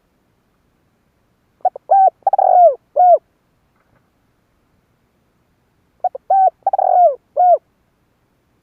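Spotted dove cooing: two phrases of several short coos each, about four seconds apart, with silence between them.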